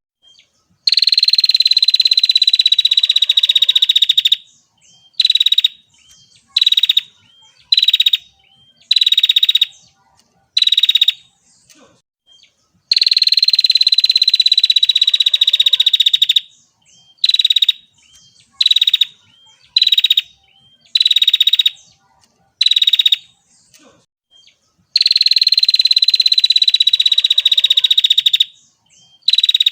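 Female prinia (prenjak) calling: three long, rasping trills of about three and a half seconds each, with a series of short buzzy notes about a second apart between them. The sequence repeats every twelve seconds or so, as a looped recording.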